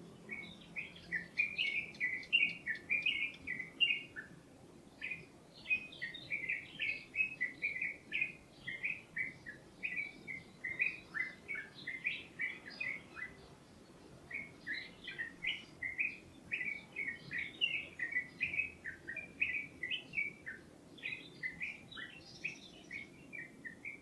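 A songbird singing a fast, chattering run of short high chirps in three long bouts, pausing briefly about 4 and 13 seconds in.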